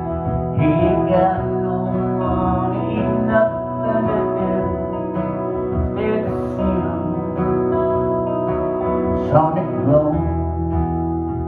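Live music: a strummed acoustic guitar, with a singing voice coming in at times.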